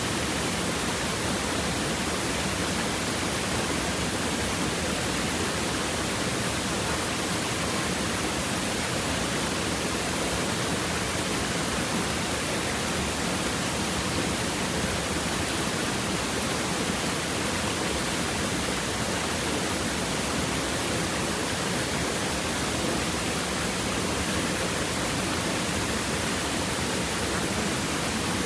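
Stream water running over rocks, one steady, even rush of water that does not change.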